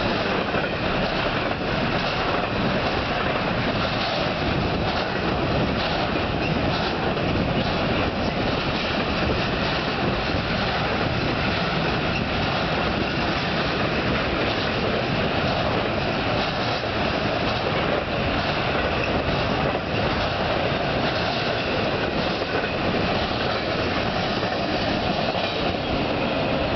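Intermodal freight cars, carrying double-stack containers and piggybacked truck trailers, rolling past at steady speed: continuous steel wheel-on-rail noise with a clickety-clack from the wheels.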